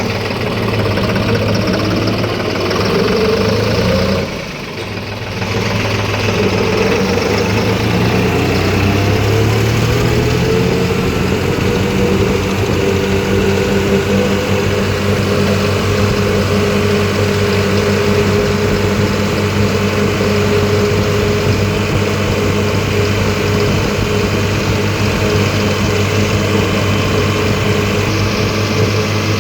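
Tractor's diesel engine running on a road test drive. Its pitch rises over the first few seconds, the sound drops briefly about four seconds in, then the pitch climbs again and holds steady. The axle housings have just been refilled with gear oil, and the owner hears no abnormal noise and judges it to be running excellently.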